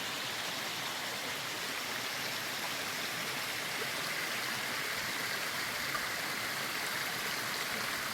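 Steady rush of water from a river running over waterfalls, an even hiss with no change in level.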